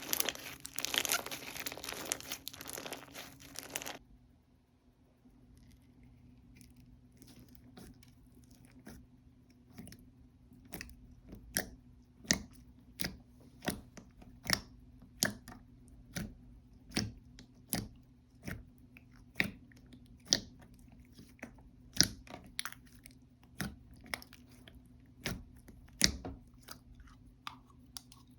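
Slime being worked in the hands: a dense crunchy crackle for the first four seconds, then quieter squishing with sharp pops that come roughly twice a second.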